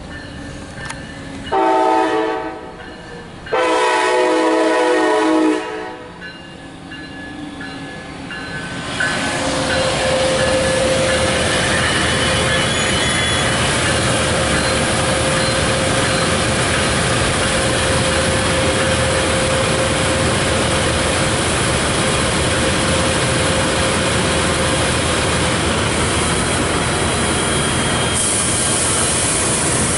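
MARC commuter train sounding two long horn blasts in quick succession, then, a few seconds later, its bilevel coaches rolling past with a loud, steady rumble of wheels on the rails.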